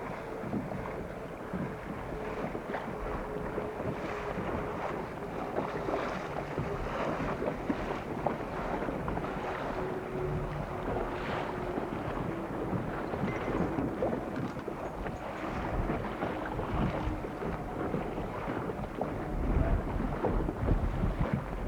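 Wind blowing across the microphone over water noise around a boat, with a faint steady tone in the first half and heavier gusts buffeting the microphone near the end.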